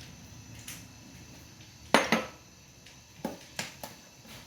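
Kitchen utensils and dishes knocking and clinking, as in handling a knife, bowl and cutting board: one sharp clack about two seconds in with a second just after, then three lighter taps near the end.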